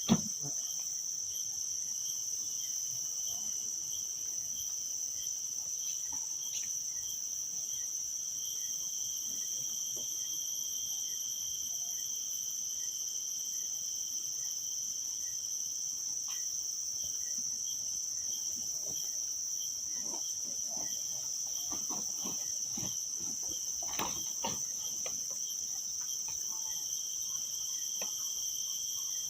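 A steady, high-pitched chorus of forest insects with one insect chirping about twice a second underneath. There is a sharp click at the very start and a few faint knocks and rustles a little past the middle.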